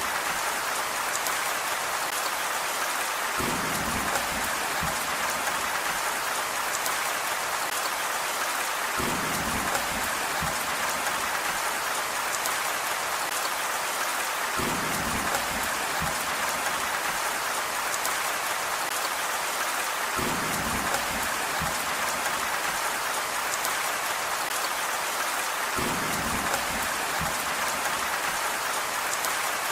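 Steady rain falling on a surface, an even hiss of many drops. A low rumble comes and goes about every five and a half seconds.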